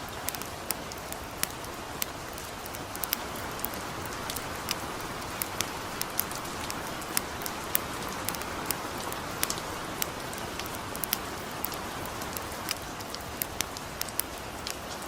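Gentle rain falling steadily over a small campfire, with frequent sharp crackles and ticks scattered through the hiss.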